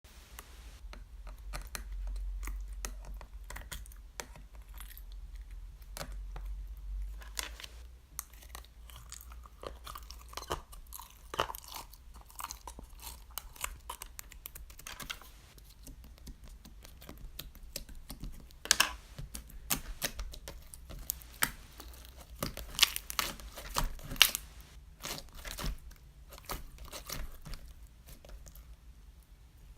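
Irregular close-up crinkling and crackling clicks, thicker in the second half, over a low rumble that is strongest for the first several seconds.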